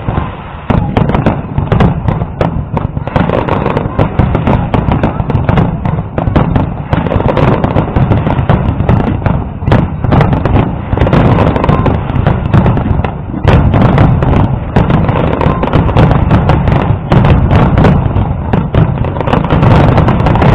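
Aerial fireworks display in a dense, loud barrage: many shells bursting in quick succession, their bangs and crackle overlapping almost without a break. There is a short lull about half a second in.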